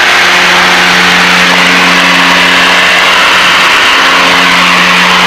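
Piper Seneca's twin piston engines and propellers droning steadily in cruise flight, heard inside the cabin as a loud, even hum over a broad rushing noise.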